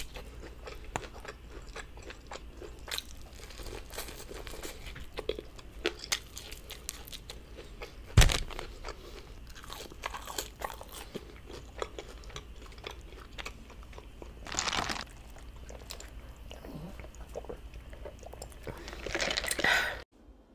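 Close-miked crunching and chewing of crispy fried chicken, with many small mouth clicks. A sharp thump stands out about eight seconds in, and there are louder rushing sounds near the middle and just before the end, after which it cuts off suddenly.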